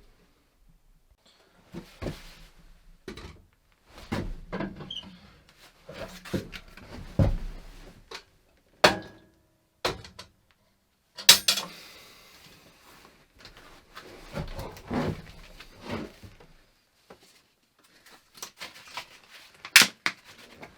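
Irregular knocks, clunks and scrapes of objects being handled and moved about, with two sharper clacks, one about halfway through and one near the end.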